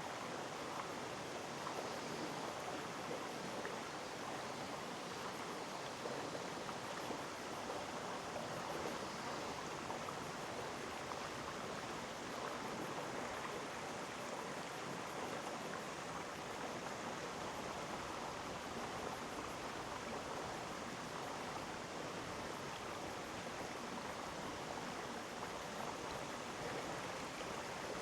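Mountain stream flowing over rocks, a steady babbling rush of water.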